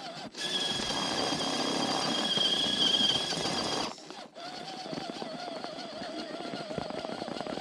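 Radio-controlled scale crawler's electric motor and geartrain whining under throttle. For about four seconds there is a high whine with grinding; after a short drop it becomes a lower, wavering whine. The truck is stuck with its rear drive broken and is driving on the front wheels only.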